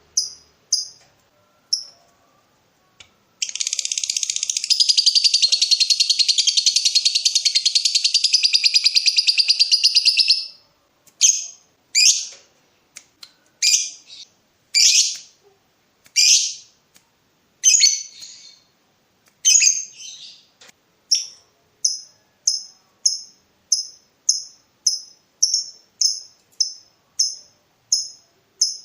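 Lovebird calling: a few sharp high chirps, then one long, rapid chattering trill lasting about seven seconds (the long 'ngekek' that lovebird keepers prize). It is followed by spaced single calls and then a fast, even run of chirps, about two a second.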